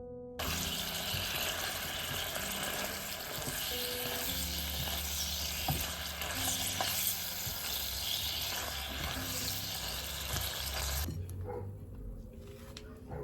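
Food sizzling in a hot frying pan, a dense steady hiss that starts abruptly just after the start and cuts off sharply near the end, over soft background music. A few light clinks follow.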